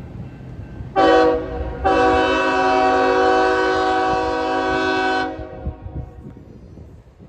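Locomotive air horn sounding a multi-note chord: a short blast about a second in, then a long blast of about three seconds that cuts off, over a low rumble.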